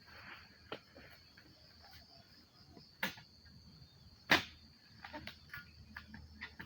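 Steady high-pitched insect drone under a few sharp knocks, the loudest about four seconds in, followed by a run of small clicks.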